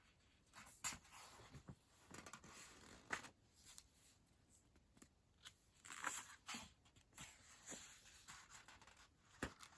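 Faint, scattered rustles and soft taps of paper pages being handled and turned in a coloring book, a few louder ones about a second, three seconds, six seconds and nine and a half seconds in.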